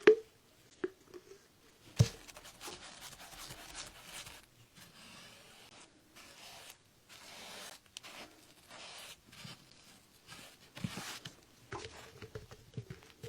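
Excess decoupage paper being cut and scraped away along the edge of a sign with a blade: a run of short scraping, tearing strokes, with a sharp knock at the very start and another about two seconds in.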